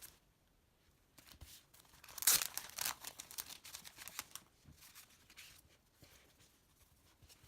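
Packaging being torn open and crinkled by hand: a run of short crackling tears, loudest about two seconds in, then fading to a few small rustles.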